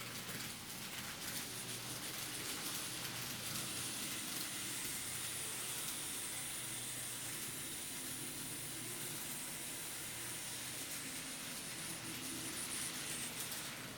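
N-scale TOMIX 207 series model electric train running on the layout track: steady motor hum and wheel rumble, with a high whine that comes in a few seconds in and fades near the end.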